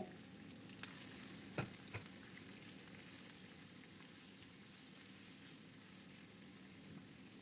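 Sliced red onions sizzling faintly in hot oil in a frying pan while they sauté, with a few light knocks of a silicone spatula stirring them in the first two seconds.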